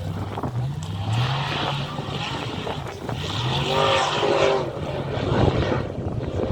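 Off-road rally car engine revving up and down, with bursts of rushing, hissing noise.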